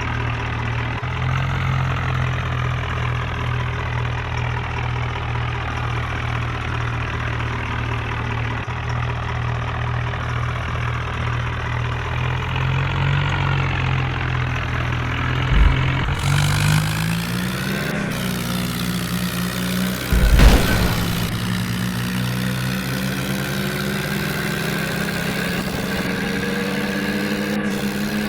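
Tractor's diesel engine running steadily, then rising in speed just over halfway through and holding there, with a thud and a louder knock in between.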